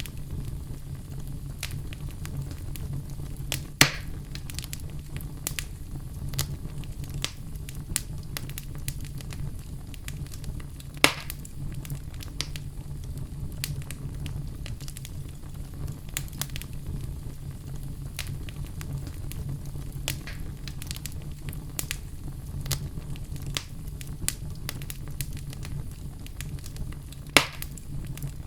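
Wood fire crackling, with irregular small crackles over a steady low rumble and three louder pops, about 4, 11 and 27 seconds in.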